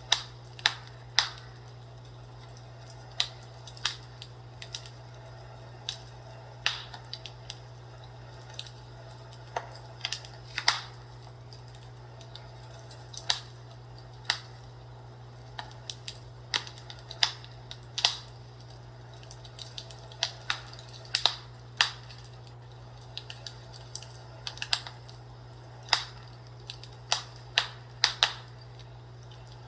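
Fireplace crackling: irregular sharp pops and snaps, some much louder than others, over a steady low hum.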